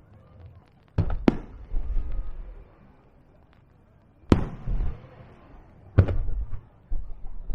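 Aerial firework shells bursting: two sharp bangs close together about a second in, a louder one past four seconds and another at six. Each bang is followed by a low rumbling echo.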